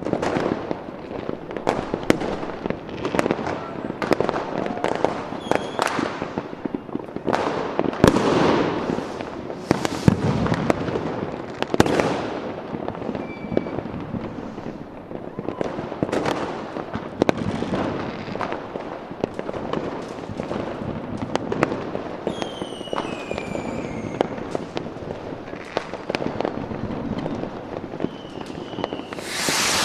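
Fireworks going off in a continual barrage of bangs and crackles, each bang ringing out briefly. A few short falling whistles come a little past two-thirds of the way through.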